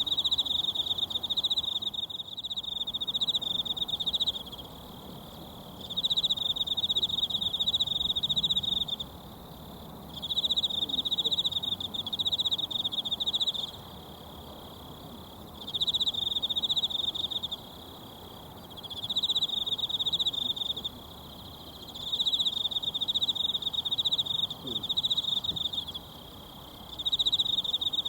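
An insect trilling in repeated bursts of two to three seconds with short pauses between, about seven bursts, over the steady rush of a mountain stream.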